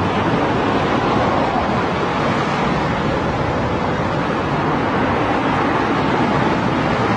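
Steady road traffic ambience: a continuous wash of vehicle noise with no single passing vehicle standing out.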